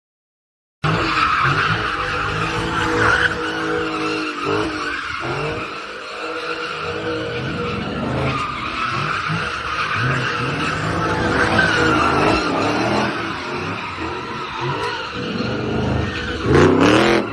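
Car tyres squealing and skidding over a running engine, starting abruptly about a second in, with a louder rising squeal near the end.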